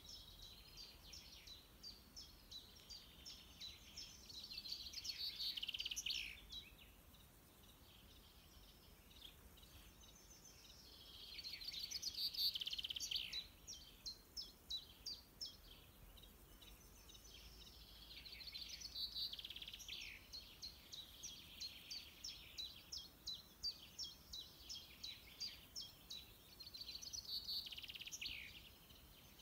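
Birdsong in a leafy garden: birds singing high, with runs of short repeated notes alternating with longer warbling phrases that swell and fade every few seconds, over a faint low background hum.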